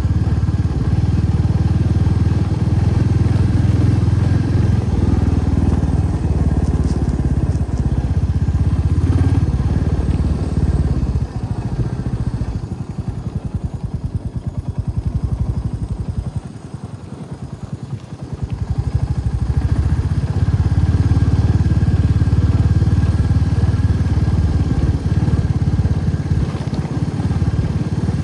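Motorcycle engine running under way. Around the middle it drops back to low revs, where the single firing beats can be heard, then picks up again to a steady pull.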